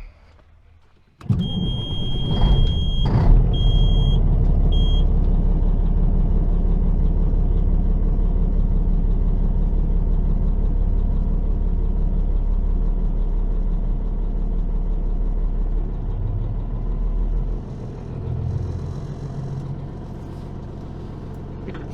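Peterbilt semi truck's diesel engine cranking and firing right up about a second in, then running steadily at idle. A high beeping tone sounds as it catches and twice more briefly. Near the end the deep engine note drops and it runs quieter.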